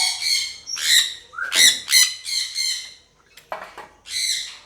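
Parrots squawking in a string of harsh, high calls, with a short lull about three seconds in before the calling starts again.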